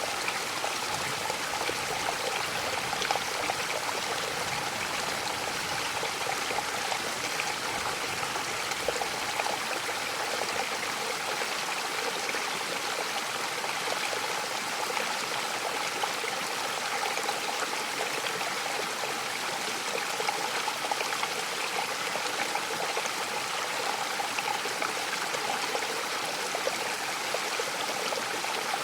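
Waterfall pouring steadily, an even rushing and splashing of falling water.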